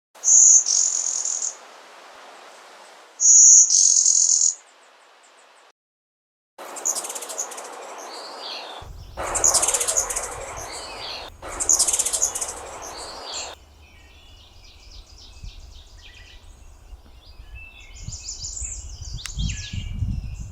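Wild songbirds singing and calling in several short takes joined by sudden cuts. Two loud, high, roughly one-second calls open it, then three louder song passages, then softer, busier chirping over a low rumble.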